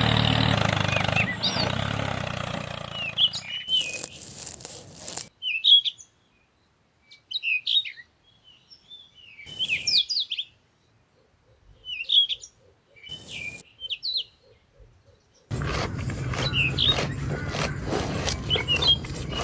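Small birds chirping over and over in short, quick calls. A steady droning noise with a low hum fades out over the first few seconds, leaving near-silence between the chirps, and comes back abruptly about fifteen seconds in.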